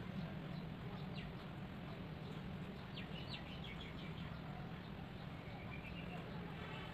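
Steady low background hum with a few faint bird chirps, a short cluster about three seconds in and a brief rising call near the end.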